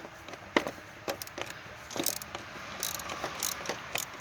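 Ratchet wrench with a 10mm socket clicking in short runs while loosening the positive battery terminal's clamp nut, with a few sharper metal clicks.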